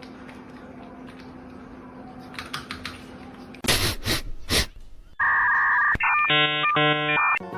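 A low steady hum, then a quick cluster of loud sharp knocks or bursts, followed by electronic beeping: a steady two-pitch tone for about a second, then a rapid pattern of pitched beeps.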